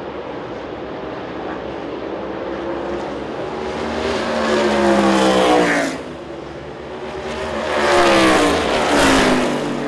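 NASCAR Cup Series race cars' V8 engines going past at speed, each engine note swelling and then dropping in pitch as the car goes by: one car about four seconds in, then more cars close together near the end.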